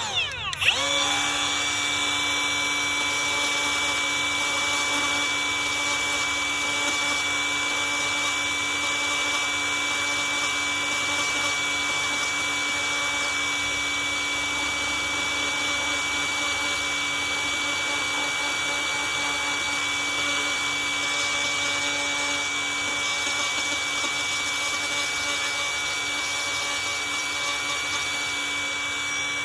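A handheld high-speed rotary tool spins up with a rising whine just after the start, then runs steadily at constant speed with a high whine, digging out chipped and delaminated gel coat on a fiberglass jet ski hull.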